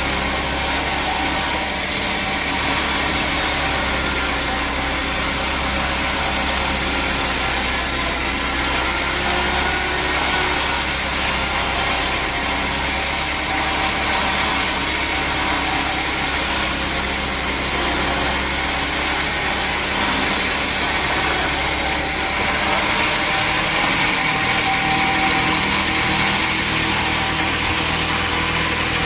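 Sawmill machinery running with a steady engine or motor drone. About two-thirds of the way through, the low hum drops away and a higher note comes up.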